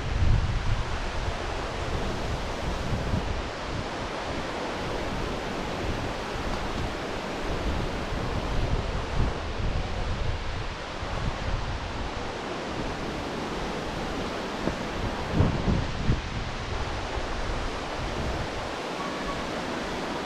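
Steady rushing of a mountain waterfall's cascades, with wind buffeting the microphone in uneven low gusts, a stronger gust about 15 seconds in.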